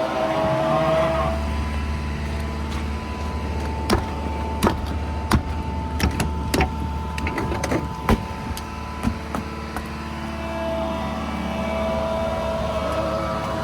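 A vehicle engine running steadily, with a series of sharp clicks and knocks through the middle.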